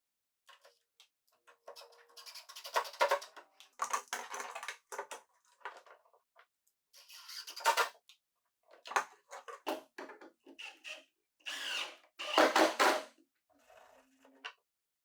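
Plywood workbench parts being handled and fitted into place: irregular knocks, taps and clatter of wood on wood, in several bunches with short gaps between.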